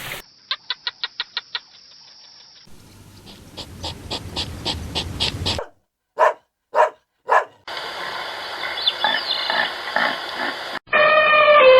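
A string of different animal calls cut one after another: a quick run of clicks, a few seconds of rhythmic pulsing calls, then three short barks, and a loud pitched call starting near the end.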